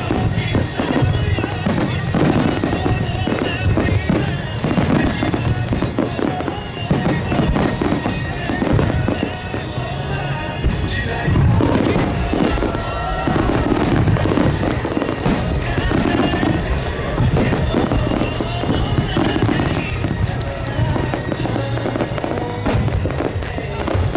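Fireworks bursting and crackling in rapid, continuous succession over a pop song with singing played on loudspeakers.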